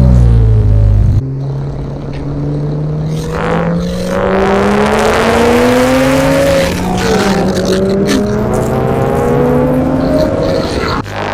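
Porsche 987.1 Cayman S's 3.4-litre flat-six through a Fabspeed cat-back exhaust, driven under acceleration. It is loud at first and drops off sharply about a second in. The pitch then climbs steadily for several seconds, shifts down near the middle, and climbs again.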